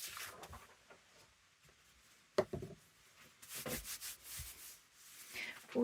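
Paper and card being handled on a craft table: short swishes of sheets sliding and rubbing, with a sharp tap about two and a half seconds in as something is set down.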